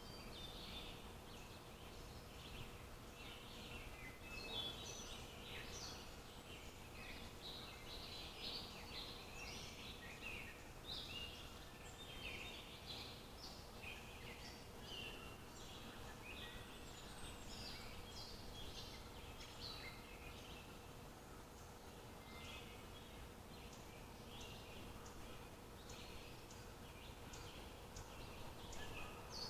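Birds chirping and twittering in many short, overlapping calls, over low outdoor background noise and a faint steady hum.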